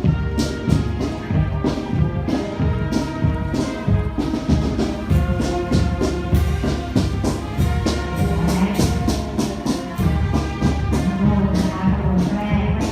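School marching band playing a tune on brass instruments over a steady drumbeat.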